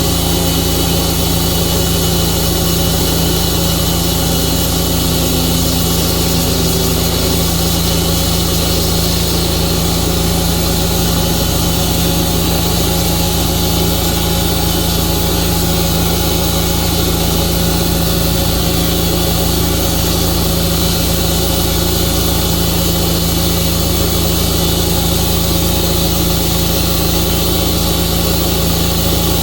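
Tru-Cut band sawmill's engine running steadily at a constant pitch and level.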